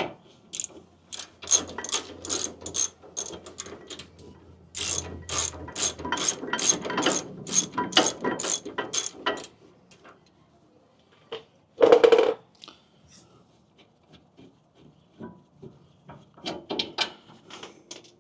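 Hand ratchet wrench clicking in runs, about three clicks a second, as bolts are backed out of a rear brake caliper. About twelve seconds in there is one louder metal clank.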